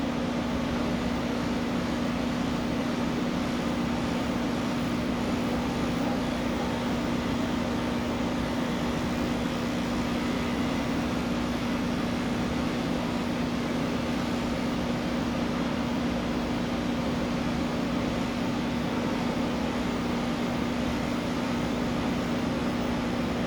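Electric pet clippers running steadily while shaving a cat's coat, a constant buzzing hum.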